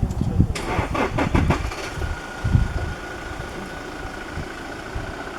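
Vehicle engine starting: a short burst of cranking about half a second in, then the engine catches and runs steadily at idle.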